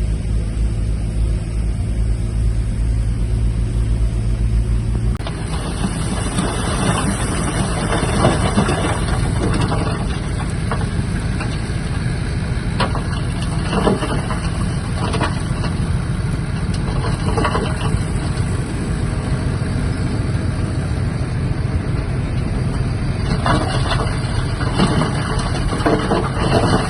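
Shantui DH17-C3 bulldozer's diesel engine running: a steady, even hum for about five seconds, then an abrupt change to a rougher working sound with occasional sharp knocks and clanks.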